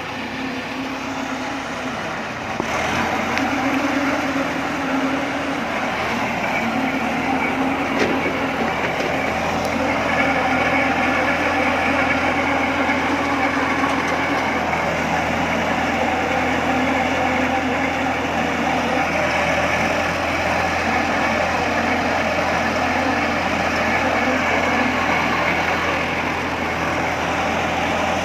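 Tractor engine running steadily, powering pile foundation boring work, with a low steady hum that grows louder about three seconds in and holds.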